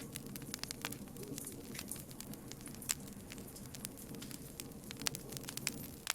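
Campfire of burning wood crackling, with frequent sharp snaps and pops at irregular intervals over a steady low rush.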